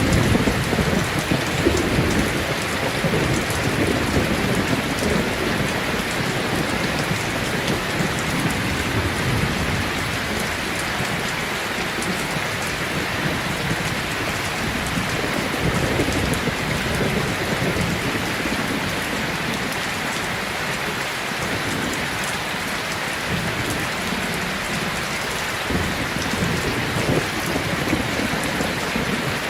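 Steady heavy rain with low rumbles of thunder, strongest in the first couple of seconds and rolling in again more faintly later on.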